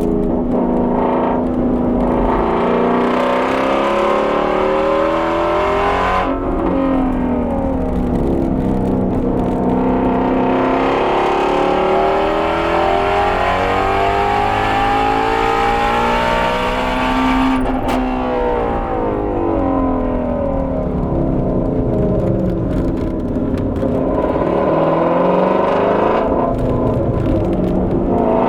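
Shelby GT350R's flat-plane-crank 5.2-litre V8 at full throttle on track, its pitch climbing under acceleration and falling off again several times, with a sharp gear change about 18 seconds in.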